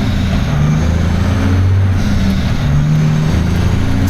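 Semi truck's diesel engine heard from inside the cab, running under load with its low drone shifting in pitch every second or so.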